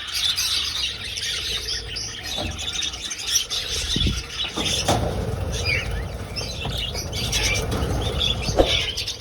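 A flock of budgerigars chattering nonstop, with wings flapping as birds fly about the aviary and a few low thumps.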